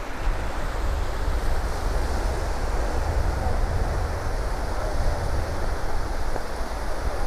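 Wind buffeting the microphone in a fluttering low rumble, over the steady wash of surf.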